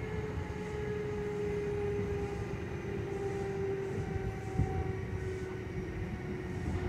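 Kintetsu 2610-series electric train heard from inside the passenger car while running: steady wheel and track noise under a whine from the traction motors and gearing, whose pitch slowly falls as the train slows. There is a single sharp knock about four and a half seconds in.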